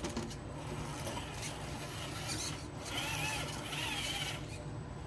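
Traxxas TRX-4 RC rock crawler's electric motor and gear drivetrain whining under load as it crawls over rocks, the whine wavering in pitch for a couple of seconds in the middle.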